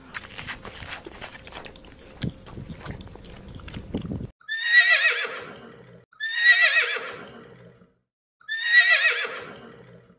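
Horse whinnying three times in a row, each a shrill, quavering neigh of about a second and a half that falls in pitch. Before the whinnies, a few seconds of light crackling and rustling.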